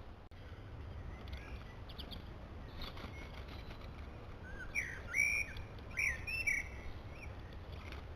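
Small birds chirping and calling: faint scattered chirps at first, then a louder run of short, sliding whistled calls about halfway through, over a steady low rumble.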